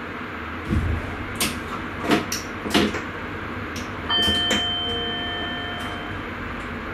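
Inside a train driver's cab: a series of sharp clicks and knocks over steady cab hum, then a single ringing chime about four seconds in that fades away over about two seconds.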